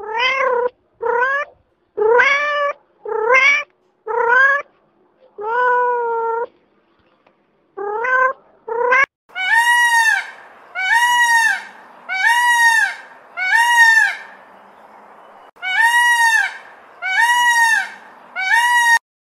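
A cat meowing, about eight short meows that slide upward in pitch. About nine seconds in, a peacock takes over with a string of about nine repeated calls that rise and fall in pitch, with a short pause midway.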